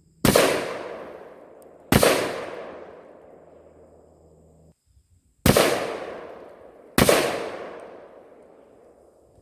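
Four gunshots in two pairs, about a second and a half apart within each pair. Each shot is a sharp crack with a long echoing tail.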